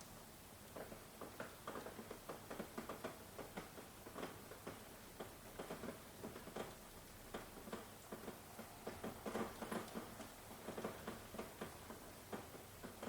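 Rain falling, its drops tapping on a surface in an irregular patter of several ticks a second. No thunder is heard.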